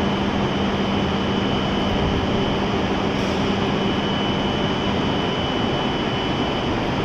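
E7 series Shinkansen train standing at the platform, its onboard equipment running with a steady rushing noise, a low hum and a thin high whine. The low hum fades out about five seconds in.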